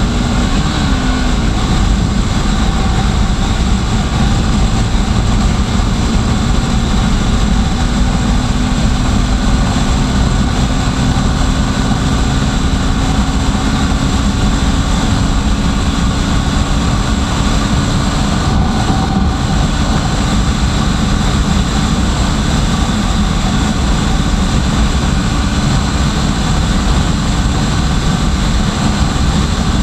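Loud, steady vehicle noise, a dense rumble with a faint engine tone rising slowly in pitch.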